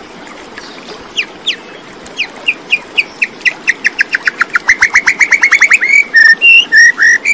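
A songbird singing: short downslurred notes that start slowly and speed up into a fast trill, followed by a few separate notes near the end.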